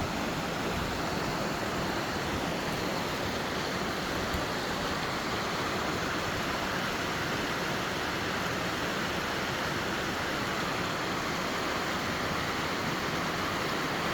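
Steady rushing of running water, such as a stream or small waterfall, holding level without a break.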